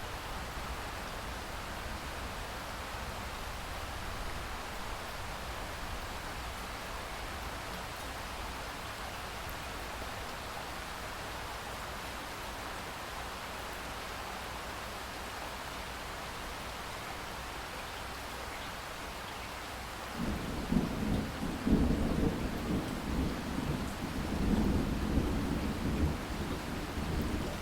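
Steady rain hiss, then about twenty seconds in a rolling rumble of thunder starts and keeps rumbling over the rain to the end.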